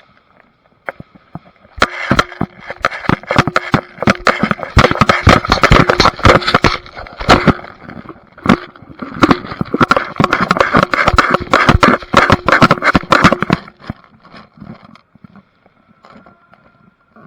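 Airsoft guns firing in long rapid strings of sharp clicks, in two stretches with a short lull between, over a faint steady motor whine.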